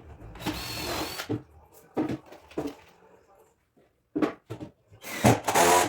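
Workshop assembly sounds on an MDF cabinet: sharp knocks of panels and tools being handled, with two short bursts of a whirring power tool, one about half a second in and a louder one near the end.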